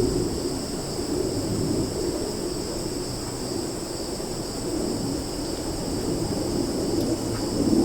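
Summer forest ambience: a steady, high insect chorus in two pitches drones without a break over a low rumble that swells and fades.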